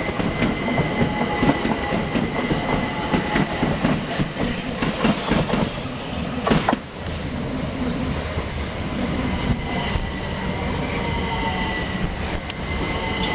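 Class 375 Electrostar electric multiple-unit train running along the platform: a steady rumble with wheels clattering over rail joints and a thin high whine. About seven seconds in there is a sharp knock, the clatter drops away and a smoother rumble continues.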